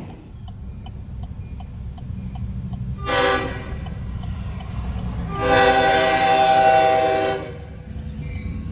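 Train horn sounding one short blast, then a longer blast of about two seconds, over the steady low rumble of the passing train.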